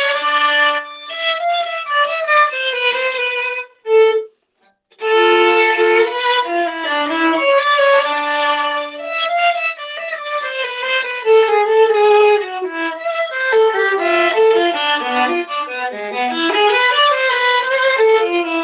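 Solo viola bowed through a flowing melody of quickly changing notes, with a brief break about four seconds in. It is recorded through a microphone with a crunchy sound.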